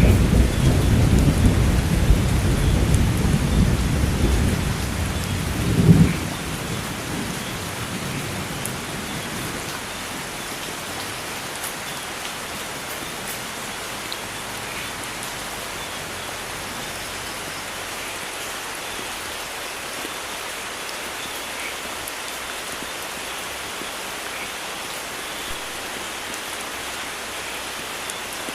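Steady hiss of heavy rain. A low rumble of thunder fills the first six seconds, swelling to a crack about six seconds in and then stopping abruptly, after which only the even rain remains.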